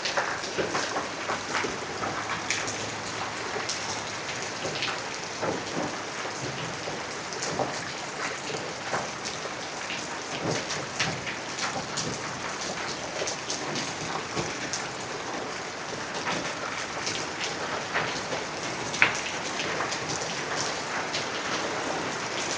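Heavy rain falling on small rocks: a steady wash of rain with dense, sharp drop ticks, and one louder tick a few seconds before the end.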